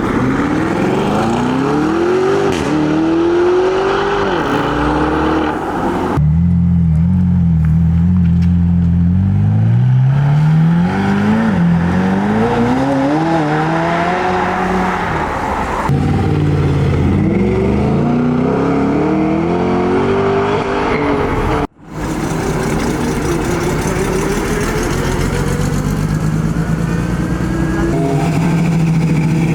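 Performance car engines accelerating away one after another, each rising in pitch, dropping at a gear change and climbing again. The sound changes suddenly three times as one car gives way to the next.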